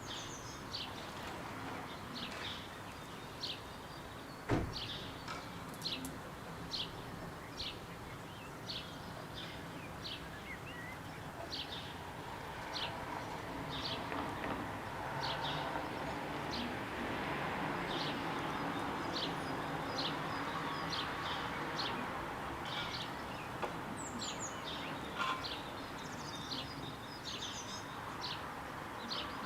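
A small bird chirping, short high calls repeated about once a second, over steady background noise. A single sharp knock sounds about four and a half seconds in.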